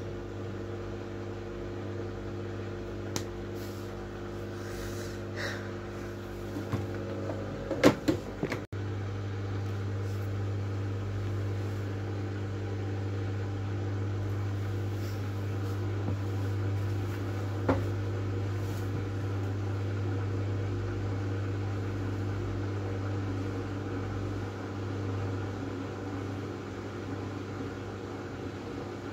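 Miele W433S washing machine running with a steady motor hum. There is a cluster of clicks and knocks about eight seconds in and a single click later on.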